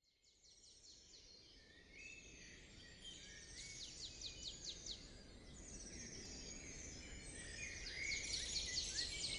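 Several songbirds singing in woodland, with quick repeated chirps and trills, fading in from silence and growing steadily louder.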